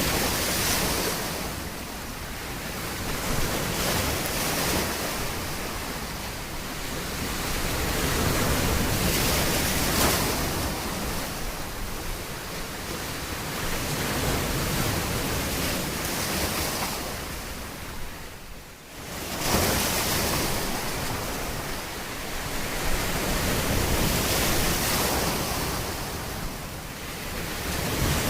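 Ocean surf on a beach: waves breaking and washing up the shore, swelling and ebbing every few seconds. A brief lull about two-thirds of the way through ends in a sudden wave crash.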